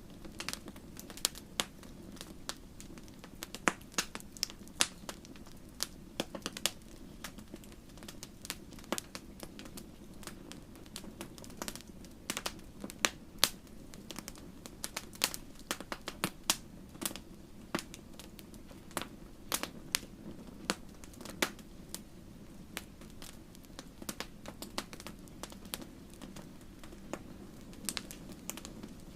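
Wood fire crackling in a fireplace: irregular sharp pops and snaps over a steady low rush of the flames.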